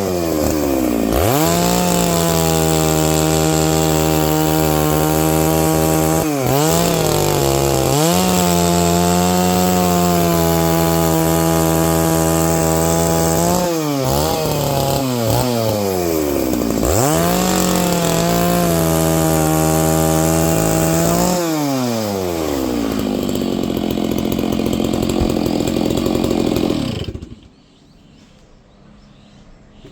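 Stihl MS 660 two-stroke chainsaw ripping a pine log lengthwise at full throttle, its revs dipping briefly and recovering several times under load. About two-thirds of the way through it drops to a lower steady speed, and the sound cuts off suddenly near the end.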